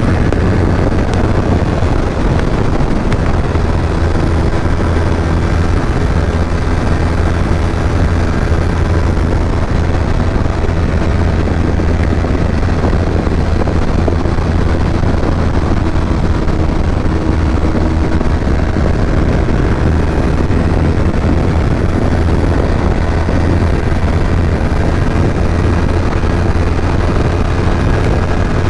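Kawasaki Ninja 250 parallel-twin engine running at a fairly steady pace while being ridden, a loud continuous engine drone with little change in pitch.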